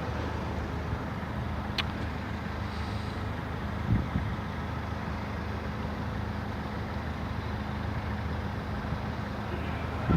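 Street traffic with a motor vehicle's engine idling steadily, a low hum under the general road noise. There is a brief sharp click about two seconds in and a short dull thump about four seconds in.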